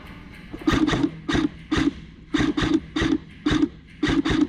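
Airsoft gun firing in about eight short, rapid bursts. Each burst has a sharp crack and a brief buzzing tone.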